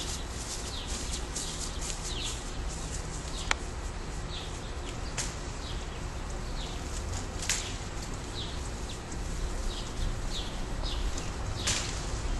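Small bird chirping repeatedly outdoors, short high chirps about once a second, over a steady low rumble.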